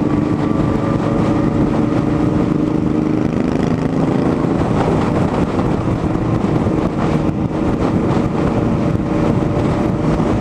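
Motorcycle engine running steadily at highway cruising speed, with wind noise on the microphone.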